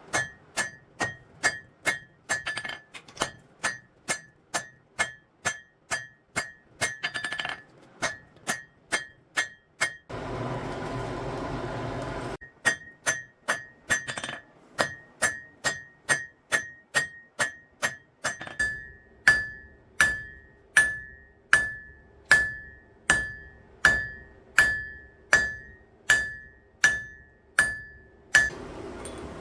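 Blacksmith's hammer striking hot steel on an anvil at a steady pace of about two blows a second, each blow ringing. About ten seconds in the hammering stops for a couple of seconds, leaving a steady rushing noise, then resumes with the ring growing louder and clearer near the end.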